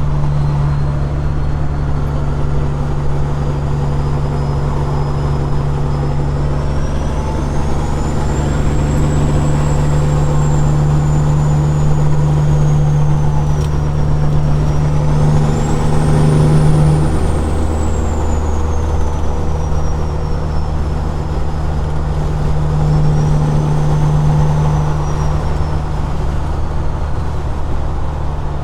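Caterpillar 6NZ inline-six diesel of a straight-piped Peterbilt 379 running steadily under way with a deep, even drone. A thin high whistle rises and falls over it. About two-thirds of the way through, the engine note briefly swells and then drops.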